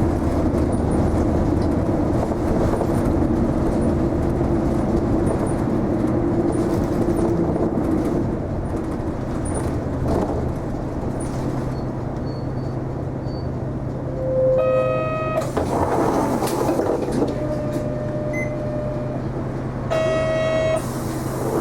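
Isuzu Erga non-step city bus heard from inside the cabin: the engine runs under way, then settles to a steady idle hum as the bus stops. An electronic chime sounds twice, each near a burst of air hiss from the pneumatic doors.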